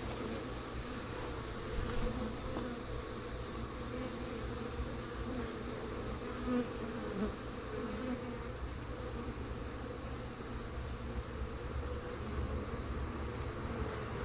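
Honey bees of a small swarm buzzing steadily around open nuc boxes, a continuous hum of many bees with an occasional louder bee passing close.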